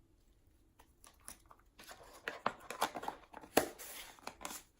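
Slime being handled out of its container and into the mix: a quick run of sticky crackles and clicks starting about two seconds in, loudest about three and a half seconds in.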